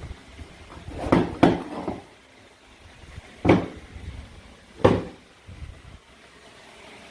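Four sharp clacks of hard toy play-food pieces being handled or cut. Two come close together about a second in, and two more come singly around three and a half and five seconds in.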